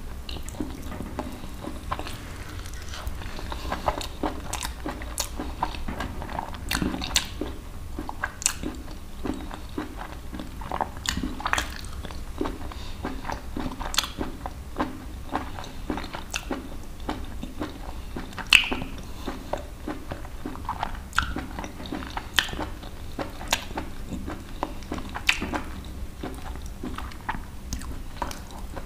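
Close-miked chewing and biting of bhuna country chicken in masala, with irregular crunches and small wet clicks.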